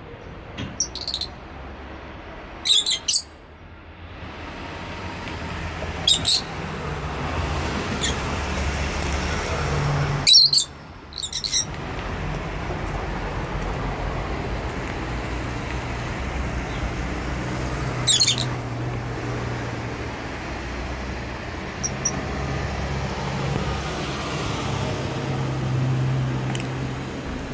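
Lovebirds giving short, shrill chirps in scattered bursts, about four or five times, over a steady low hum.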